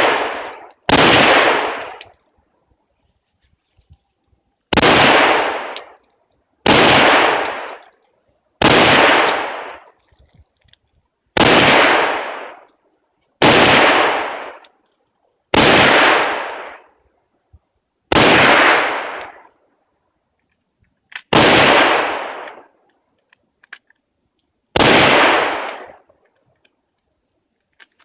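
Firearm shots fired one at a time in a shooting stage: about ten loud reports, two to four seconds apart, each ringing off over about a second and a half.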